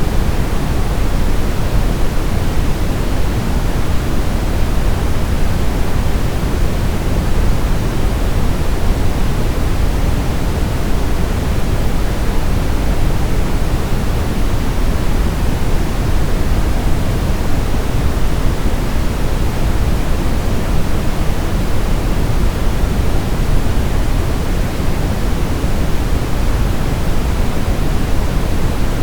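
Continuous brown noise: a steady, deep rushing hiss, heaviest in the low end and unchanging throughout.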